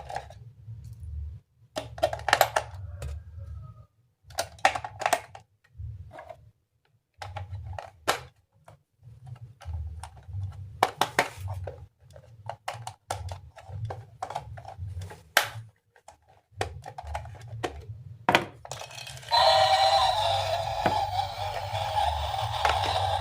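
Hard plastic toy parts knocking and clicking as they are handled and fitted together, in irregular short taps. Background music comes in near the end.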